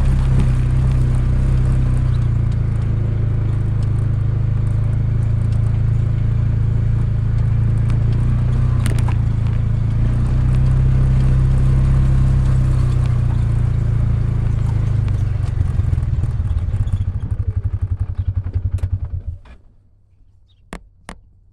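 ATV engine running steadily, then switched off about nineteen seconds in, its firing slowing into separate pulses as it dies. A couple of sharp clicks follow in the quiet.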